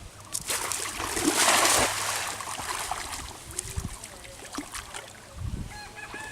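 Water splashing: a rushing splash of spray starts about half a second in and lasts around a second and a half, then gives way to softer trickling and sloshing.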